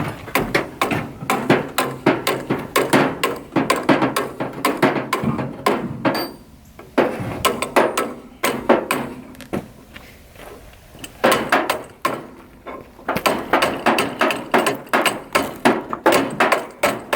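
Rapid hammer blows, about three a second, knocking at a stuck, rusted-on part of a 1964 John Deere 2010 dozer, in several runs broken by short pauses.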